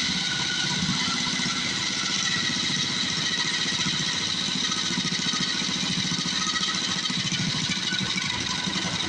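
Mini bike's small single-cylinder engine running steadily just after being pull-started, still cold, with the choke taken off early.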